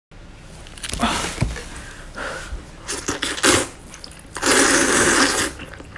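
Close-miked eating sounds: a few short crunchy, wet bites and chews, then one longer, louder burst about four and a half seconds in.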